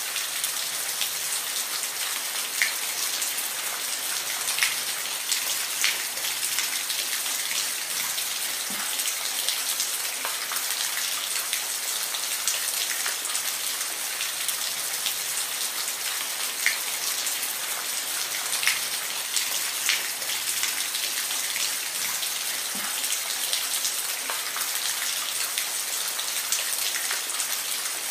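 Steady rain with individual drops ticking sharply against a surface now and then.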